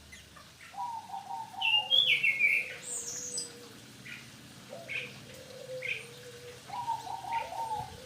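Opior bird calling: short high chirps and falling whistled notes, two warbling runs of quick notes about a second long each (about a second in and near the end), over a lower, steadier held note.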